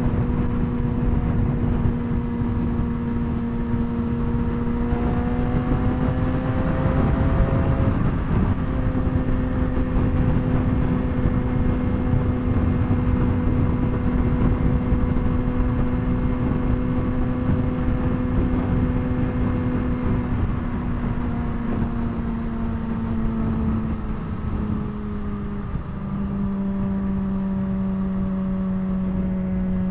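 Straight-piped 2007 Suzuki GSX-R600 inline-four engine and exhaust running at highway speed, with a steady rushing noise underneath. The revs climb for a few seconds about six seconds in, drop back sharply near eight seconds, hold steady, then ease lower over the last several seconds.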